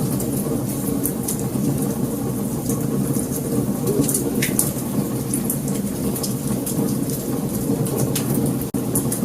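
Wood fire burning with a steady low roar of flames and frequent sharp crackles and pops. The sound drops out for an instant near the end.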